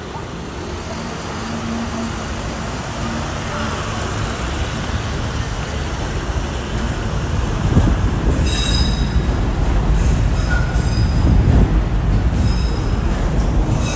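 Train running into a station: a low rumble that grows steadily louder, with high metallic wheel squeals from about halfway through.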